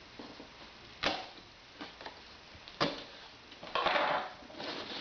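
Cardboard packaging being handled: two sharp clicks about two seconds apart, then a short scraping rustle of cardboard near the end.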